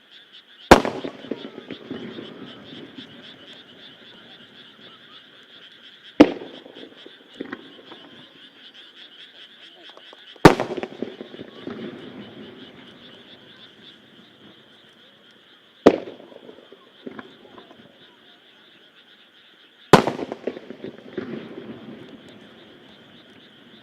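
Japanese aerial firework shells bursting one at a time, five sharp bangs about four to five seconds apart, each followed by a trailing crackle and a fainter second report. Behind them a chorus of frogs calls steadily.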